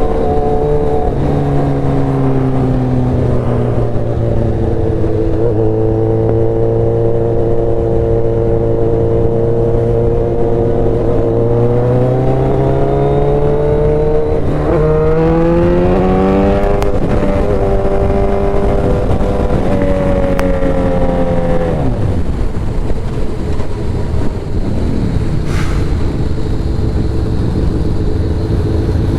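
Motorcycle engine under way while riding, holding a steady note, then climbing in pitch twice with a gear-change break about halfway through, and falling away about three-quarters through as the throttle closes, over a steady rushing noise.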